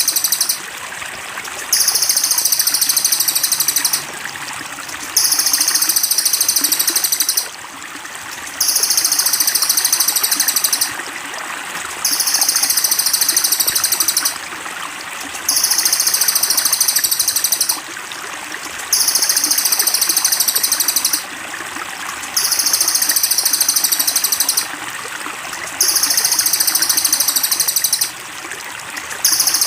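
A very high-pitched, dense trill repeats in regular bursts of about two and a half seconds, roughly one every three and a half seconds, like a looped recording for tutoring songbirds. Under it, water trickles steadily.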